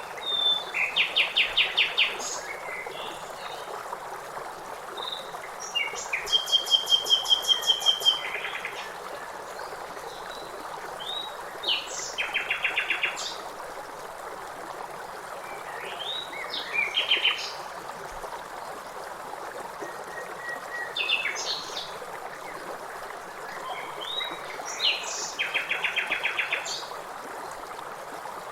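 Songbirds singing short trilled phrases of rapidly repeated notes every few seconds, over the steady rush of river water.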